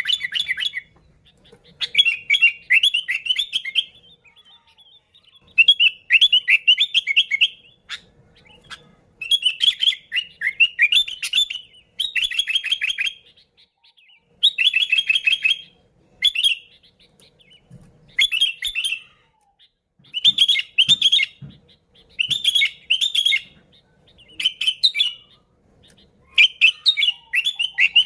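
Sooty-headed bulbul (kutilang) singing loudly and vigorously: about a dozen short bursts of quick, bubbling notes, each a second or two long, with brief pauses between them. This is the kind of song used as a lure call to draw in other bulbuls.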